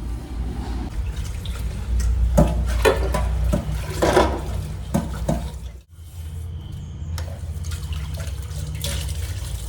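Water running from a kitchen tap while dishes are washed in the sink, with several knocks and clinks of dishes between about two and five seconds in. The running water breaks off briefly near six seconds and starts again.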